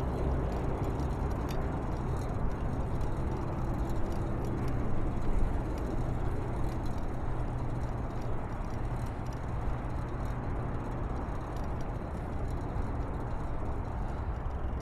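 Steady hum of motor traffic mixed with low wind rumble on the microphone.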